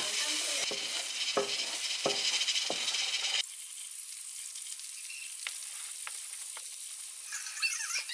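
Diced vegetables sizzling in a frying pan, stirred with a wooden spatula that knocks and scrapes against the pan. After a cut a few seconds in, an egg fries with a quieter sizzle and a few light ticks. The sizzle and scraping pick up again near the end as the egg is scrambled.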